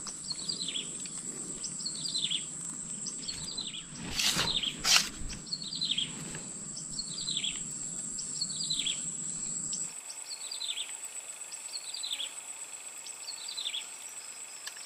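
A bird calling over and over, each call a short falling note, about one a second, over a steady high whine. Two sharp knocks come about four and five seconds in.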